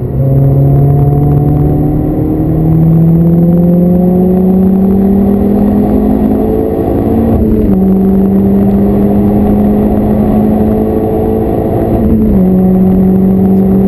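VW Lupo engine heard from inside the cabin, pulling hard under acceleration, its pitch climbing steadily. It drops sharply on an upshift about halfway through, climbs again more slowly, and drops on a second upshift near the end.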